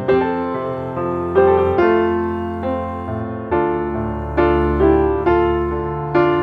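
Background music played on piano or electric piano: a slow melody of struck chords, a new note or chord every half second to a second, each dying away before the next.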